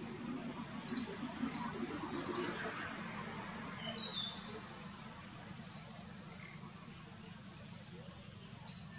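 Small birds chirping: short, high chirps repeated at irregular intervals, with one falling whistle a little before the middle.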